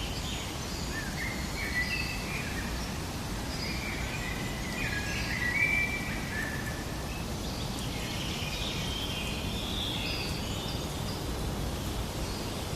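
Several birds chirping and singing in short whistled phrases over a steady background of outdoor noise.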